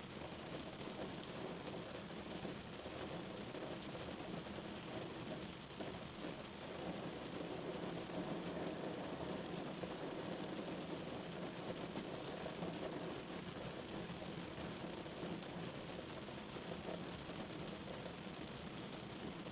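Steady rain falling on a car, a dense even patter of drops on the body and glass, growing slightly heavier about a third of the way in.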